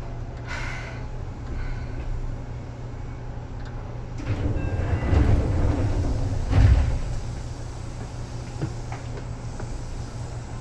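Seibu 2000 series electric train running, heard from inside the car: a steady low rumble that swells and turns rougher for a few seconds about four seconds in, with a few faint brief high squeals.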